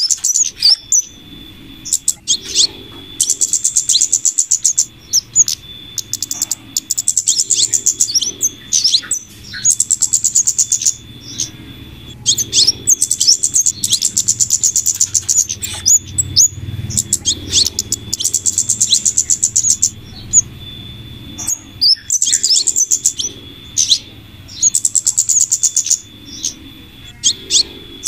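Bird-lure recording of flowerpecker calls mixed with female scarlet minivet calls. Rapid, high-pitched trilled chatter comes in strings of about two seconds, repeated over and over with short gaps, and single sharp notes fall between the strings.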